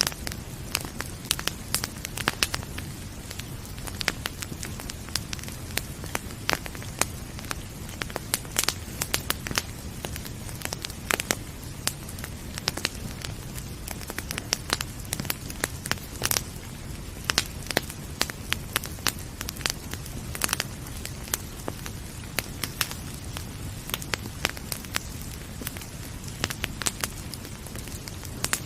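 Wood fire crackling, with frequent sharp irregular pops of varying loudness over a steady low rumble.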